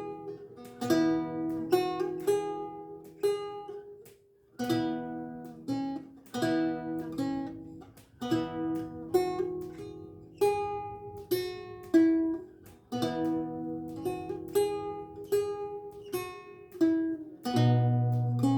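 Renaissance lute with gut strings played solo, plucking single notes and chords that ring and die away. There is a short pause about four seconds in, and a deep bass note sounds near the end.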